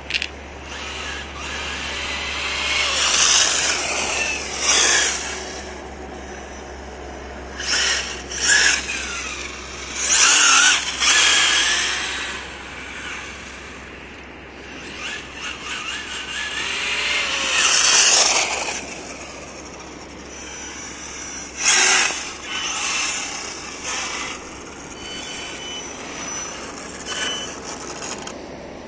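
Electric RC truck with a Mamba Monster 2200kv brushless motor driven in repeated bursts of throttle, the motor whine rising and falling with each burst over a hiss of tyres on the ground.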